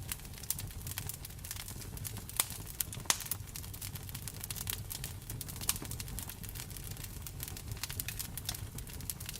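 Wood fire crackling in a fireplace: irregular sharp pops and snaps, a couple of them louder, over a steady low rumble and the hiss of falling rain.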